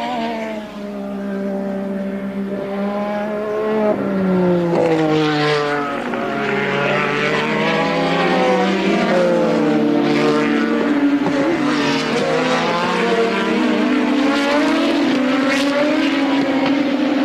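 Several 1983-season Formula One cars running at racing speed, their engine notes overlapping and sweeping down and up in pitch as they pass and change gear.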